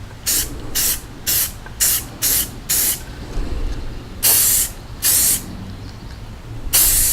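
Rust-Oleum aerosol spray paint can spraying in short bursts: six quick ones about two a second, then three longer ones.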